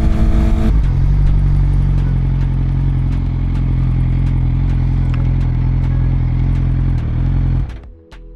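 Suzuki GSX-R600 inline-four engine under way on a ride. It is revving high, drops sharply in pitch under a second in as the revs fall, then holds a steady, lower note. The sound cuts off abruptly near the end, leaving a few faint ticks.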